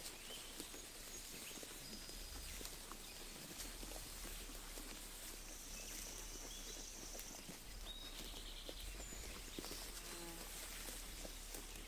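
Sheep grazing close by: a steady crackle of grass being torn and chewed. Small birds chirp several times over it, with a short high trill about two thirds of the way through.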